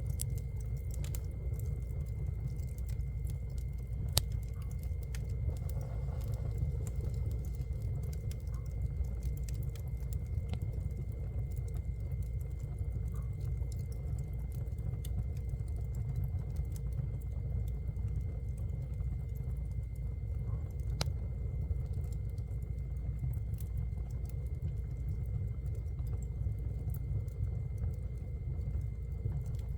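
Wood fire in a fireplace crackling, with scattered sharp pops and snaps over a steady low rumble of the flames. A faint steady high tone runs underneath.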